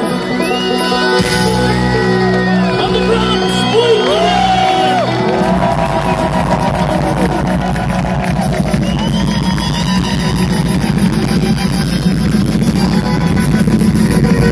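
A live band playing a bluegrass-style instrumental passage with acoustic string instruments. For the first few seconds a lead line bends and glides over a held bass, then a dense, steady strummed rhythm takes over.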